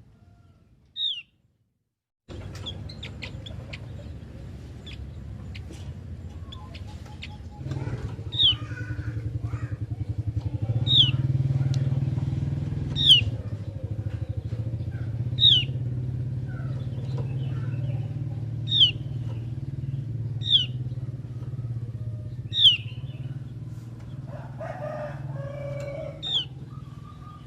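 A Javan grey-throated white-eye (opior jawa) calling with short, sharp whistled notes that drop in pitch, one every two to three seconds. Under the calls runs a low steady rumble that grows louder about eight seconds in.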